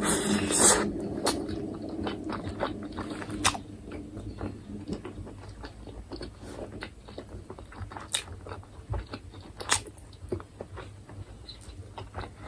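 Close-up eating of grilled chicken: a loud crunchy bite in the first second, then irregular wet clicks and smacks of chewing.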